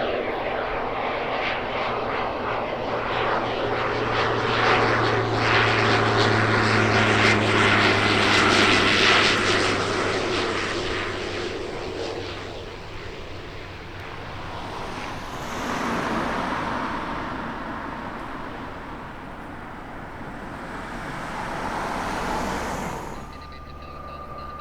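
Light propeller aircraft passing close with its piston engine running, growing louder to a peak and then fading away. A rushing noise swells twice afterwards, and the sound drops off sharply near the end.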